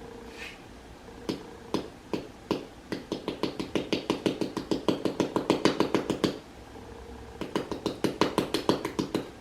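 Knife chopping repeatedly onto a hard surface while trying to cut through an Oreo cookie. A few spaced knocks at first, then a fast run of about five a second, a short pause, and another fast run near the end.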